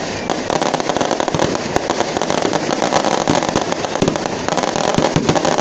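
A huge wood bonfire burning, with a dense, continuous crackle and many sharp pops throughout.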